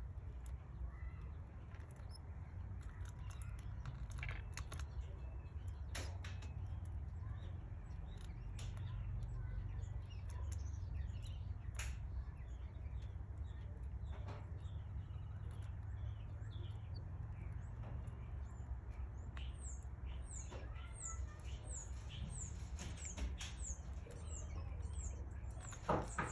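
Canary chicks cheeping: a rapid series of thin, high, down-slurred cheeps, about three to four a second, starts about three-quarters of the way in. Before that there are scattered light scratches and clicks of the chicks moving in the nest, over a steady low hum, and a single louder knock comes near the end.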